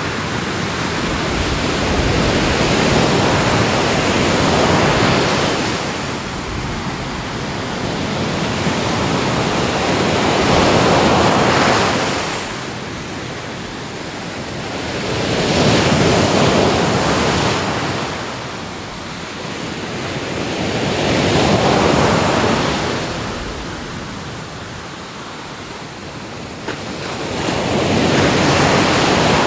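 Ocean waves breaking on the shore, a steady rush of surf that swells and ebbs, each wave building and washing back over about five to six seconds.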